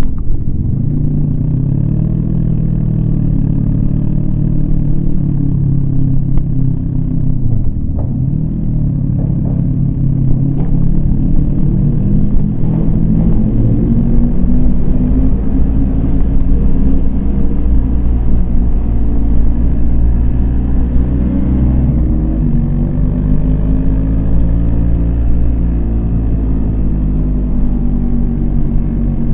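Yamaha MT-25 parallel-twin engine heard from the rider's position, its revs climbing and falling several times as the bike accelerates and shifts, with a sharp drop in revs about eight seconds in and another a little after twenty seconds. A steady low wind rumble runs under the engine.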